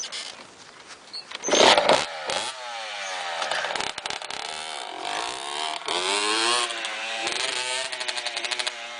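An engine revving up and down again and again, its pitch rising and falling, after a loud noisy burst about two seconds in.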